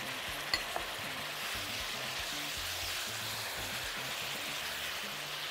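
Chicken strips, sliced onions and bell peppers frying in a hot nonstick pan: a steady sizzle while a spatula stirs them. About half a second in, the spatula taps sharply on the pan, with a smaller tap just after.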